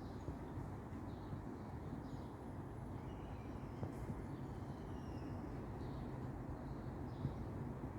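Steady low rumble of distant city traffic, with faint scattered birdsong chirps above it.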